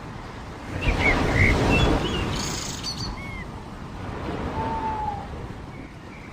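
Waves washing on a beach, swelling about a second in and then ebbing, with several short bird chirps over it and, later, one longer whistled call falling slightly in pitch.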